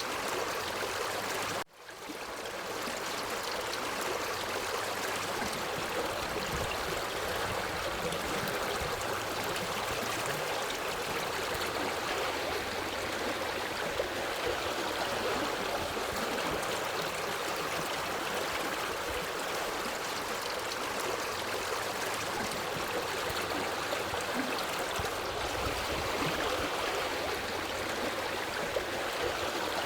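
Forest stream flowing, a steady rush of water. About two seconds in, the sound cuts out for a moment and fades back in.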